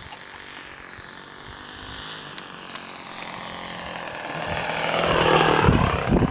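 Radio-controlled model airplane's motor and propeller buzzing overhead, growing steadily louder as it closes in and loudest near the end, its pitch sweeping as it passes.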